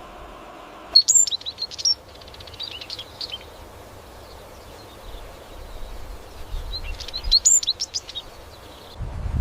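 A bird chirping: two bursts of quick, high calls, one about a second in and one near the end, with a few fainter chirps between them, over steady outdoor ambience.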